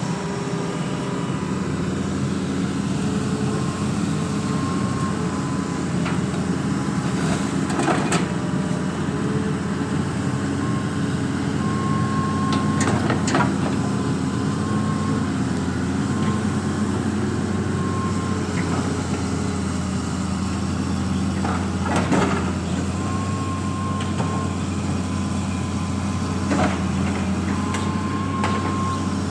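Engine of a drain-cleaning machine running steadily, with a faint whine that comes and goes and a few sharp knocks scattered through.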